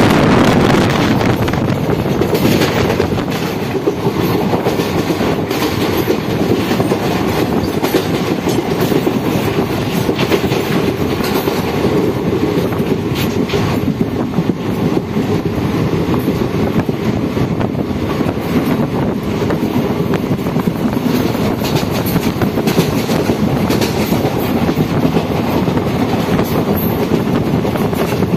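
Passenger express train running at speed, heard from on board a coach: a steady rumble and rush of the wheels on the track, with occasional sharper knocks.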